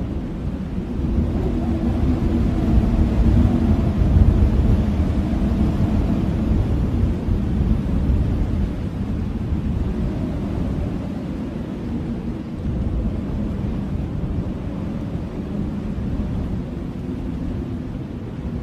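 Blizzard wind blowing hard, a deep continuous rush with a faint howling tone in it. It swells about four seconds in, then eases a little and stays steady.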